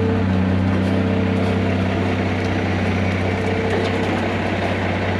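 Heavy diesel engine idling steadily with an even, low pulsing hum.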